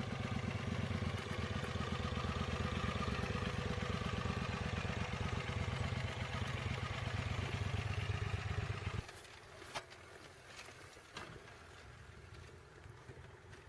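Adventure motorcycle engine idling steadily close by, then switched off abruptly about nine seconds in; a couple of faint clicks follow.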